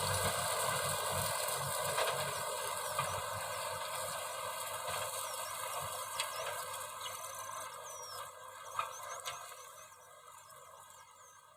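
Kubota M6040 tractor's diesel engine running and fading steadily away to faint. Short, high squeaks sound over it from about halfway through.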